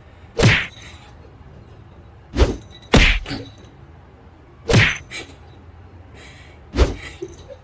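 Five loud thumps at uneven intervals, one to two seconds apart, over a faint steady low hum.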